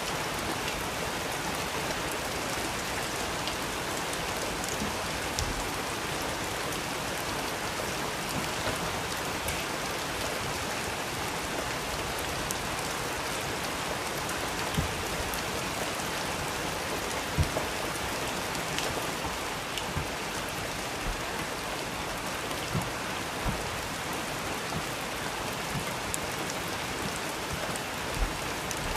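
Steady rain falling, an even hiss with a few louder drops or taps here and there.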